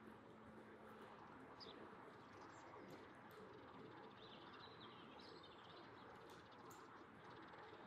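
Faint bird chirps, short and high-pitched, scattered over a near-silent background, with a few soft clicks.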